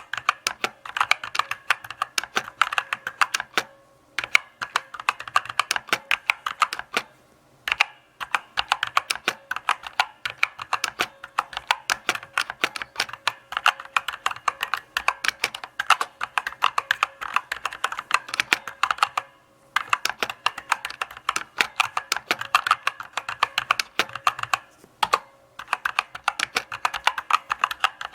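Typing on a mechanical keyboard: key switches clicking in steady runs, with a few short pauses between runs.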